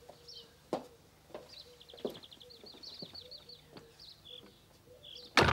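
A small songbird singing rapid high trills, with a few soft knocks and one loud thump near the end.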